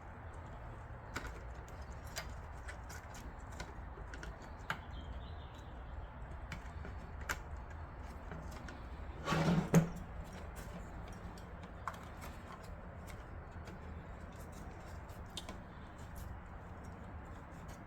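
Light clicks and handling noises of PC power cables and connectors being routed inside a computer case, over a steady low hum. About halfway through comes one short, low, hum-like vocal sound.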